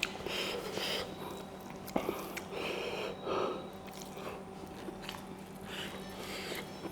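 Close-up chewing and mouth sounds of someone eating. They come as soft, irregular bites with a sharp click about two seconds in.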